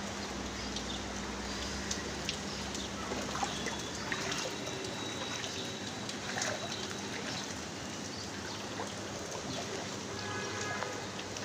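Steady rain: an even hiss of rainfall dotted with many small drop taps, with water trickling.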